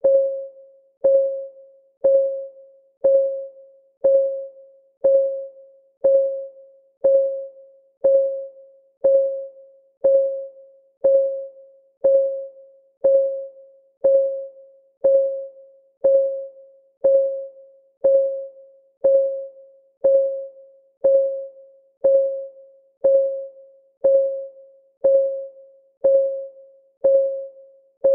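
Countdown timer's clock-ticking sound, one tick per second. Each tick is a sharp click with a short pitched ring that dies away quickly.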